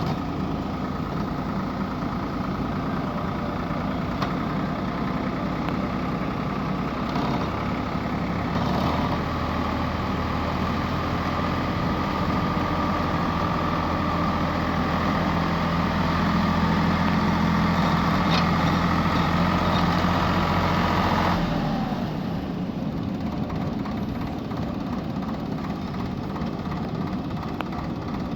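Heavy diesel engines of a JCB backhoe loader and tractor running steadily, working harder from about nine seconds in, then dropping back suddenly about 21 seconds in.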